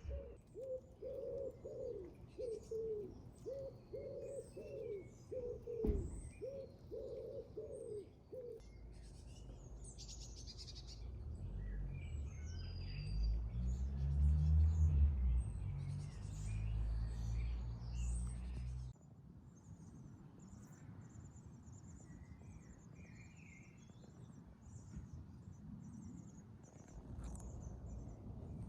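A pigeon cooing in a repeated phrase for the first eight seconds, with small songbirds chirping throughout. From about nine seconds a low rumble builds, loudest near the middle, and cuts off suddenly a few seconds later.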